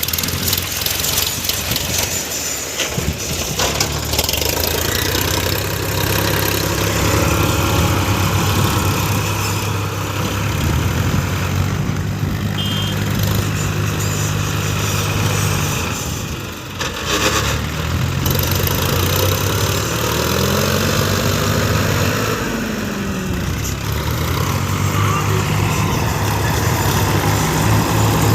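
Heavy vehicle engine running continuously, its pitch rising and falling as it is revved, with a short drop in level about sixteen seconds in.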